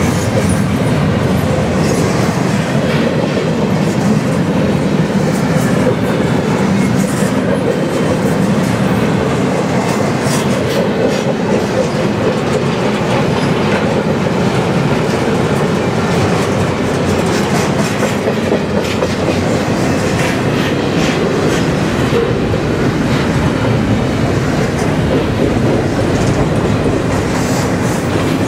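Double-stack intermodal well cars of a freight train rolling past: steel wheels running on the rail in a steady sound, with clickety-clack over the rail joints.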